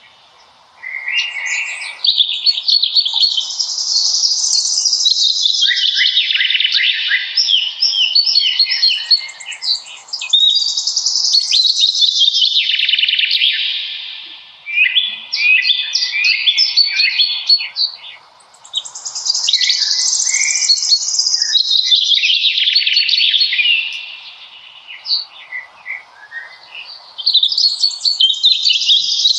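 Songbirds singing: long, rambling phrases of quick chirps and trills, with brief lulls about two thirds in and again near the end.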